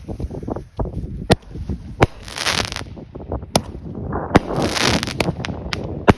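Small 200-gram consumer firework cake (Love 9 shot) firing its shots: a string of sharp bangs a second or so apart, two of them followed by a stretch of crackling hiss.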